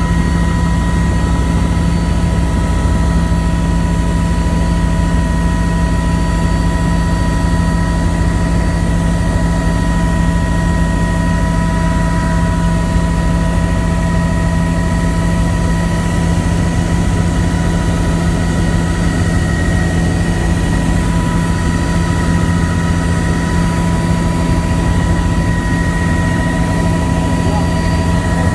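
Helicopter in flight: turbine engine and rotor noise, loud and steady, with a constant whine over a broad rush.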